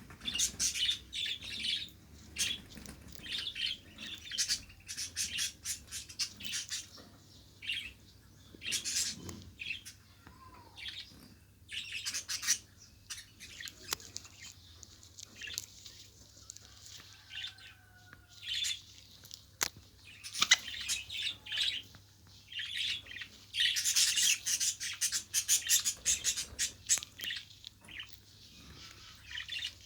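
Budgerigars chirping and chattering in irregular bursts of quick, high twittering, busiest in a long run near the end.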